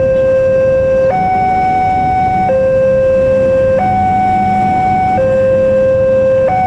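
Railway level-crossing warning alarm sounding a steady two-tone signal, a lower and a higher tone alternating about every second and a half, with a low rumble beneath.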